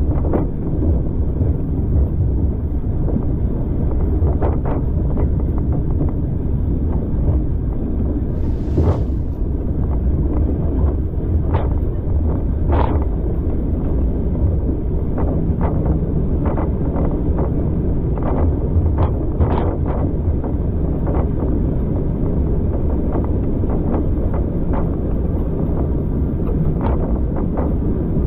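Train carriage in motion: a steady low rumble with wind noise, scattered clicks and knocks from the wheels and running gear, and a brief hiss a little under nine seconds in.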